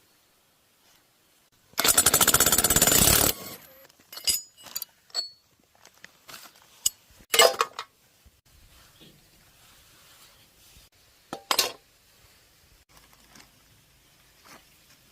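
A power tool runs in one short burst of rapid hammering, about a second and a half, during work on a small engine. Scattered metallic clinks and a few sharper knocks follow as parts are handled.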